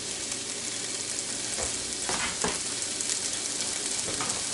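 Spam, diced tomatoes with green chilies and peas sizzling steadily in a Copper Chef square pan on a glass-top stove, with a few brief sharper sounds about two seconds in and near the end.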